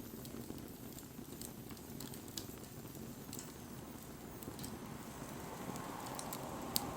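Wood bonfire burning with a low steady rumble of flame and scattered sharp crackles and pops, the loudest pop just before the end. A soft hiss swells from about five seconds in.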